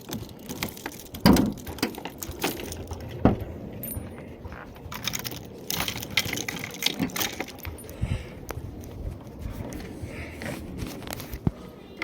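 Irregular clinks, clicks and rattles of small hard objects being handled, with louder knocks about one second and three seconds in.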